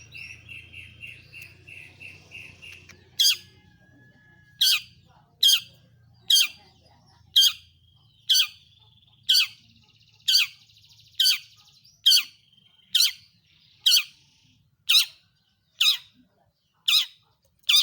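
Long-tailed shrike singing: a fast run of short chirping notes, then from about three seconds in a loud, sharp call sweeping steeply down in pitch, repeated about once a second, with soft warbling between the calls.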